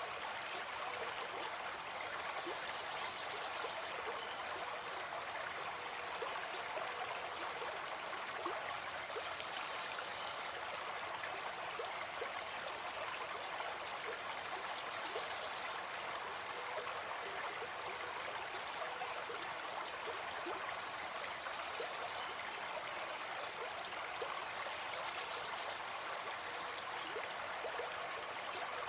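Gentle forest stream flowing: a steady, even rush of water.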